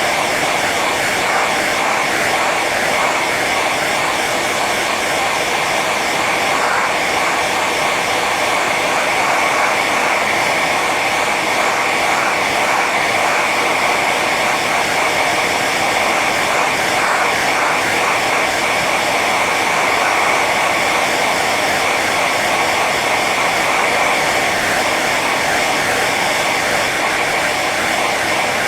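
Hair dryer running steadily on its high setting: a constant rush of blown air and motor whine with no change in pitch or level.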